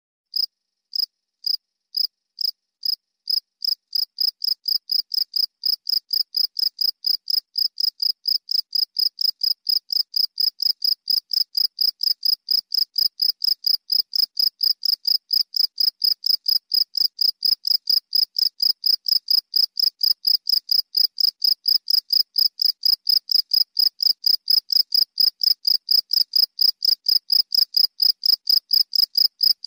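Cricket chirping: a steady train of short, high chirps that starts about half a second in and gradually speeds up from about two to about three chirps a second.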